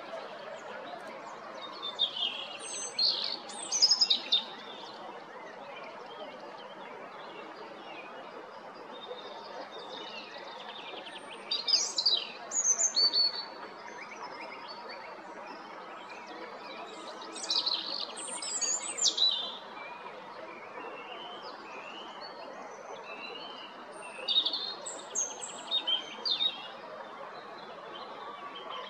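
European robin singing: four separate song phrases of high, thin, quickly changing notes and trills, each lasting two to three seconds, with pauses of several seconds between them. A steady low background noise runs underneath.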